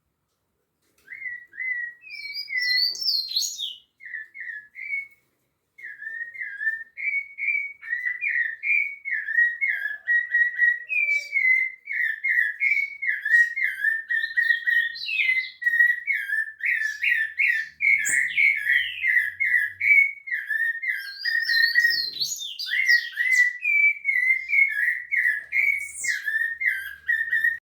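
Rufous-bellied thrush (sabiá-laranjeira) singing: a long run of short, whistled phrases close together, all near one pitch, with occasional higher notes over them. It starts about a second in, breaks off briefly near the start, then runs on unbroken until it stops just before the end.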